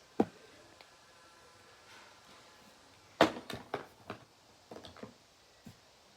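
Handling sounds of a product box and its packaging: a sharp click just after the start, then a quick run of knocks and taps about three seconds in and a few lighter taps near five seconds.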